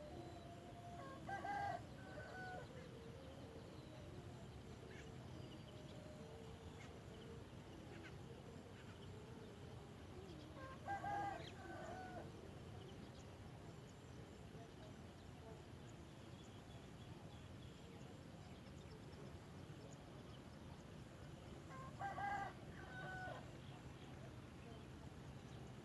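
A rooster crowing three times, about ten seconds apart, each crow about a second long, over faint scattered bird notes.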